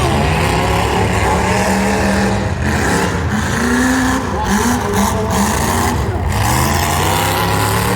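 Car engine of a demolition derby car running a timed lap on a dirt track, its pitch rising and falling repeatedly as it accelerates and lets off.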